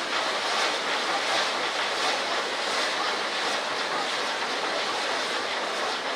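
Handmade set-piece firework (shikake hanabi) spraying sparks: a steady, loud hissing rush with faint crackle.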